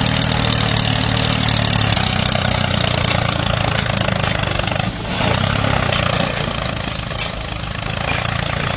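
Mini tractor's motor running steadily with a low, even hum, dipping briefly about five seconds in.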